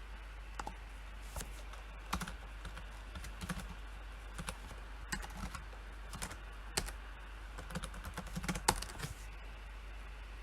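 Typing on a computer keyboard: keystrokes in short, irregular runs that stop shortly before the end, over a steady low hum.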